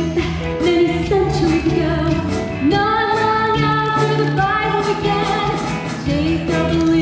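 A woman singing a musical-theatre song over an accompaniment with a steady, pulsing bass line, holding long notes.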